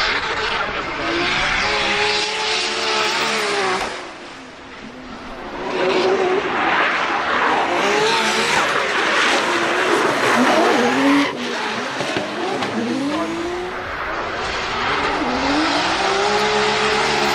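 Drift car's engine revving hard, its pitch rising and falling repeatedly, over the noise of tyres skidding and squealing. It drops off briefly about four seconds in, then picks up again.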